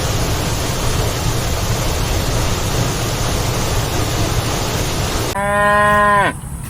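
A steady rushing noise, then near the end a cow's single moo lasting about a second, steady in pitch and dropping at its close.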